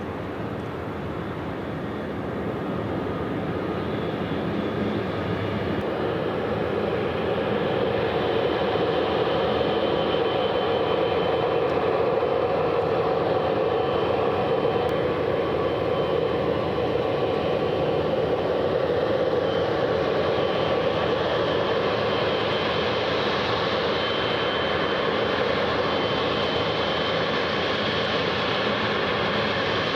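Airliner jet engines running steadily, growing louder over the first several seconds, with a faint high whine.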